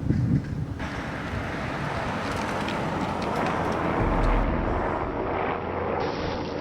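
Blizzard wind blowing hard, with gusts buffeting the microphone as a heavy low rumble under a steady rushing hiss.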